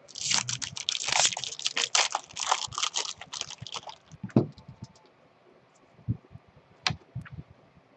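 Crinkling and tearing of a foil trading-card pack wrapper, a dense crackle for about four seconds, then a few scattered clicks of cards being handled.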